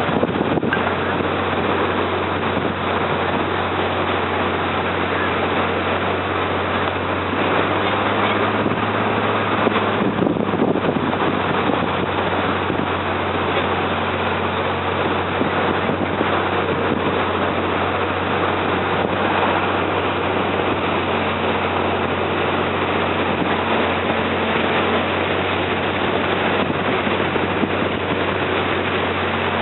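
Slow riverboat's engine running steadily, a constant low hum under a continuous rushing noise.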